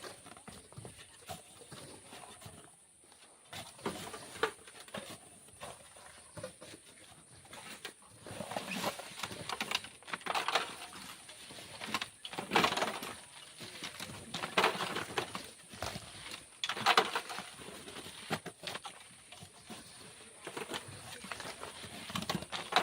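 Sand being dug and shovelled by hand: a gritty scrape-and-toss repeats about every two seconds, with quieter scuffing at first.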